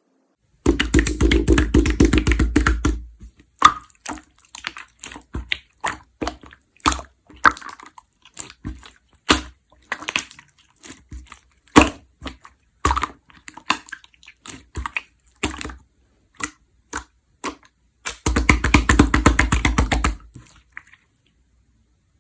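Clear slime being played with by hand: two spells of rapid crackling pops, one near the start and one near the end, with single sharp pops and clicks about twice a second in between.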